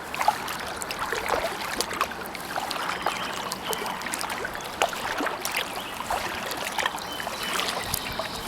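Kayak paddle strokes: water splashing and dribbling off the paddle blades, with many small clicks and drips.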